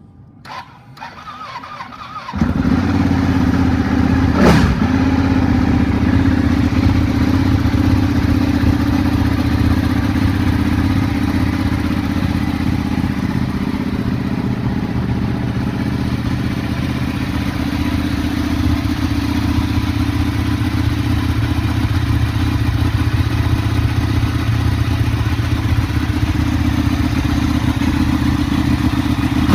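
2015 Ducati 1299 Panigale's Superquadro L-twin engine on a cold start: the starter turns it over for about two seconds, then it catches and settles into a loud, steady idle. There is one short thump a couple of seconds after it catches.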